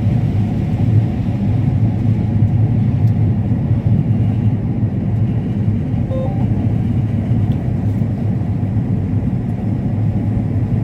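Combine harvester running steadily while harvesting corn, a constant deep engine hum with machinery rumble.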